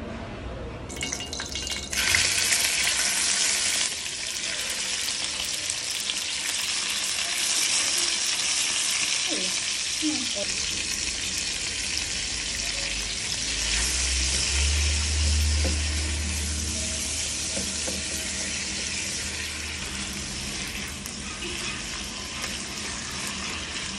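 Chicken pieces sizzling as they fry in hot cooking oil in a non-stick frying pan. The loud sizzle starts suddenly about two seconds in and keeps going steadily, and near the end the pieces are stirred in the pan.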